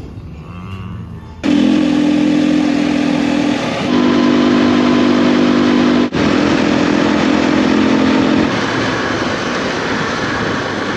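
Motorcycle running at a steady cruising speed, its engine humming evenly under loud wind rush. The sound starts abruptly and breaks off twice, as in short cut-together riding shots.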